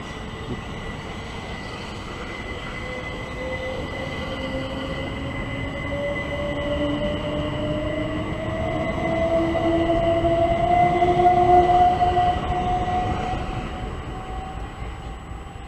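Southern electric multiple-unit train pulling away along the platform, its traction motors giving a whine that climbs steadily in pitch as it accelerates, over a steady high tone. The noise swells to its loudest about three-quarters of the way through, then fades as the rear of the train draws away.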